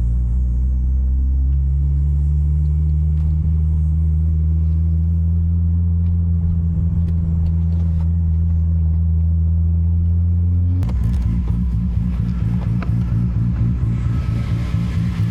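Big-turbo Toyota Supra MK4's 2JZ-GTE straight-six running at a steady cruise with a smooth, even drone. About eleven seconds in the sound changes suddenly to a choppier, pulsing rumble with more hiss on top.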